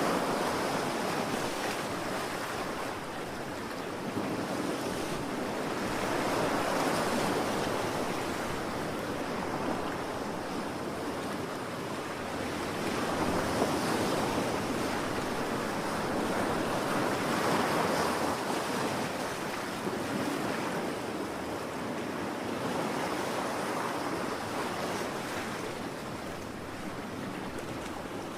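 Ocean waves breaking and washing on the shore, the surf swelling and ebbing every few seconds.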